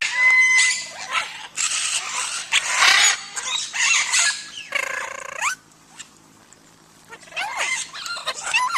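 Parrot squawking, a run of harsh screeches and pitched calls that bend up and down. It falls quiet for about a second and a half past the middle, then calls again.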